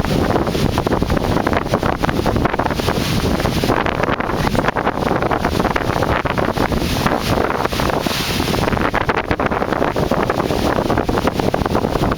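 Strong wind blowing across the camera microphone: a loud, constant rushing noise with rapid buffeting.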